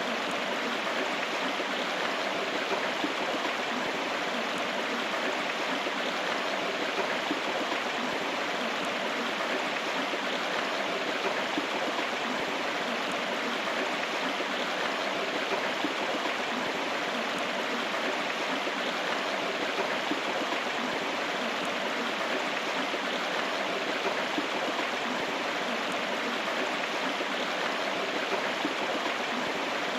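River water flowing steadily over rocks: a continuous, even rushing with no breaks.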